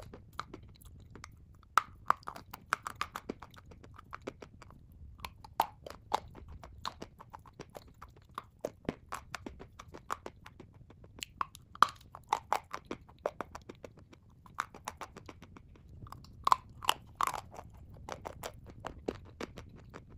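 A mouthful of dry chalk with clay paste being chewed: a continuous, irregular run of sharp crunches and clicks.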